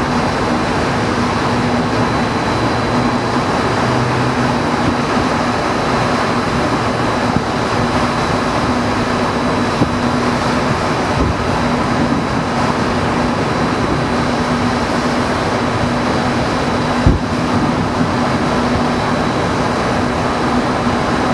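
Steady rushing background noise with a low hum, broken a few times by the thumps of distant aerial firework shells bursting. The sharpest thump comes well past the halfway point.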